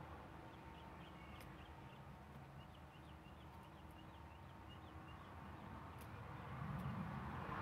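Quiet outdoor ambience: a distant bird gives two runs of quick, short high chirps over a low steady rumble, with a couple of faint clicks.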